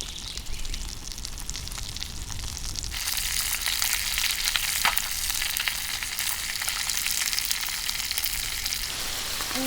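Fish sizzling and crackling as it fries in hot oil in a pan, the sizzle suddenly louder and brighter about three seconds in.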